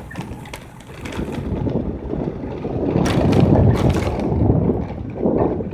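Wind buffeting the microphone outdoors: a rough, rumbling noise that swells about three seconds in, with a few sharp clicks.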